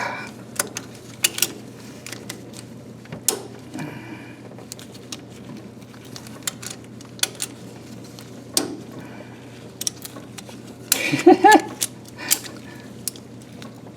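Irregular metal clicks and light clanks from working a ratchet strap that held the engine, over a faint steady hum, with a short grunt about eleven seconds in.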